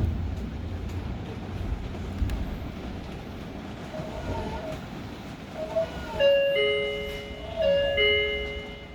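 Door chime on a Hokuriku Railroad 03 series train: a two-note falling chime, played twice, starting about six seconds in. The train's low running rumble dies away before it.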